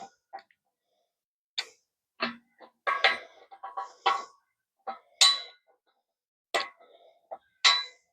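About a dozen irregular metal clinks and knocks as steel parts and tools of a U-joint press setup are handled, several ringing briefly.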